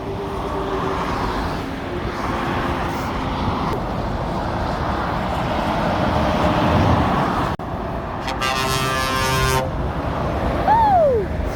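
Steady motorway traffic, with lorries passing. About eight seconds in a lorry's air horn sounds once for about a second and a half. Near the end a short tone slides down in pitch.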